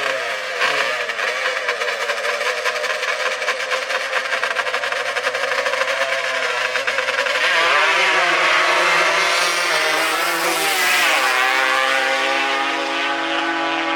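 Off-road racing engines running at full throttle, the pitch climbing and dropping back through gear changes. The engines get louder about halfway through as the machines come near.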